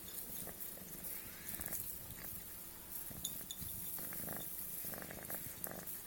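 Munchkin kitten eating close to the microphone: irregular small chewing and lapping clicks at its food bowl, with a couple of short buzzy stretches near the middle and toward the end.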